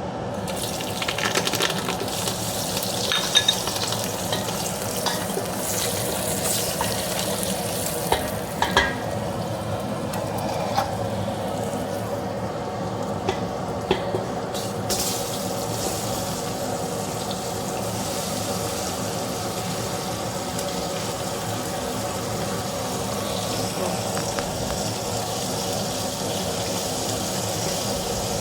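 Eating from a bowl of stew: a steady hiss with scattered short clicks of a utensil against the dish, most of them in the first half.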